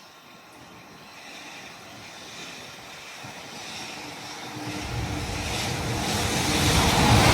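Locomotive-hauled transfer train carrying Seibu 2000-series cars approaching, a rumble growing steadily louder, with a deeper hum and a steady tone joining about five seconds in as it nears.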